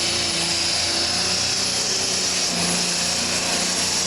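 John Deere diesel super stock pulling tractor running hard down the track under the load of the sled, a steady loud engine drone with a high whine on top.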